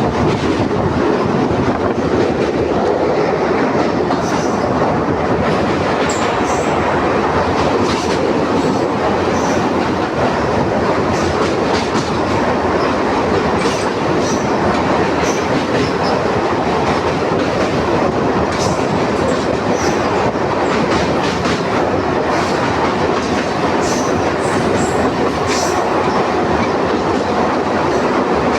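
DEMU passenger train running on the rails: a steady, loud rumble with scattered short clicks of the wheels over the track.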